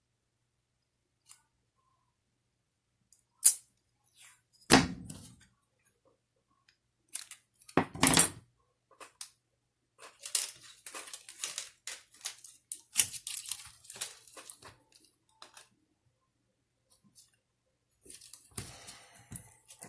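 Small-parts handling at a bench: a few sharp clicks and knocks, then bursts of crackly rustling as tape is worked around the repaired wires of a clock spring.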